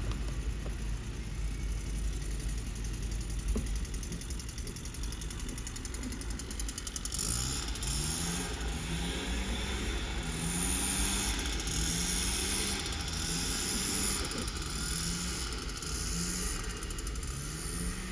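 Scania recycling truck's diesel engine idling with a steady low rumble. From about seven seconds in, a high hiss comes and goes over it.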